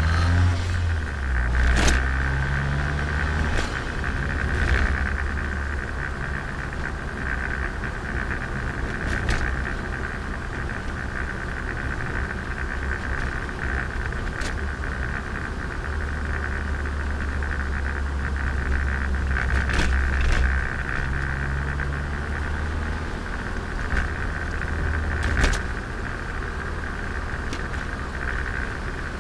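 Turbocharged Nissan Micra heard from onboard while driving: a steady low engine drone that steps up and down in revs a few times, over road and wind noise, with a handful of sharp knocks or rattles.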